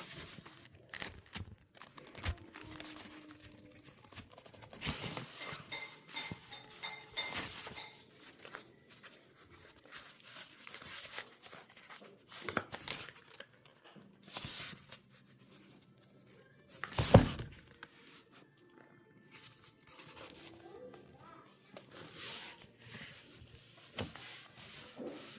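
Close handling noise: scattered small clicks, scrapes and tearing or crinkling sounds, with one loud sharp knock about 17 seconds in.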